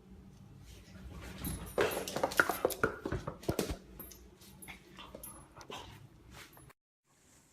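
A dog's short, sharp cries in a quick run, loudest from about a second and a half to about four seconds in, then fainter. The sound cuts off abruptly near the end.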